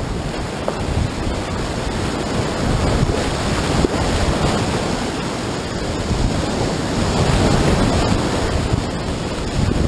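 Whitewater river rapids rushing, a loud steady wash of water that swells a little now and then, with wind buffeting the microphone.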